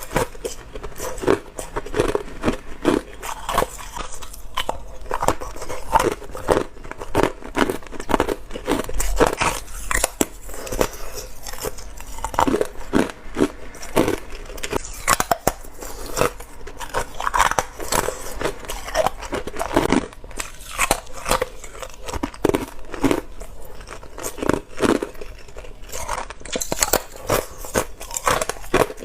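A person biting and chewing ice up close: a continuous, uneven run of crisp crunches, several a second.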